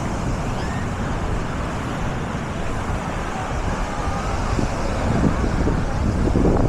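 Busy beach ambience: wind rumbling on the microphone over a steady wash of surf noise, with faint distant voices from the crowd.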